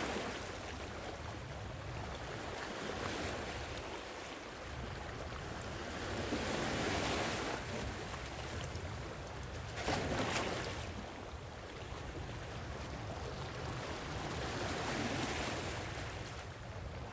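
Sea waves washing in, rising and falling every few seconds, with a sharper wave break about ten seconds in.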